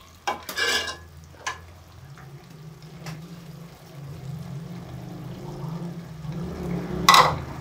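Chana dal and pumpkin frying in a metal pot on a gas stove: a soft sizzle over a low steady hum, with a few light knocks in the first three seconds and a brief louder noise near the end.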